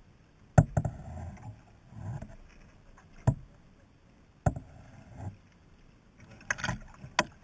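Kayak being paddled: four sharp knocks, about a second or more apart, each followed by a short wash of splashing water.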